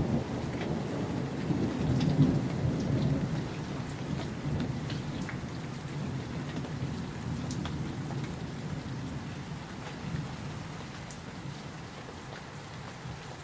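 Thunder rumbling low, loudest about two seconds in and slowly dying away, over steady summer rain with scattered sharp raindrop ticks.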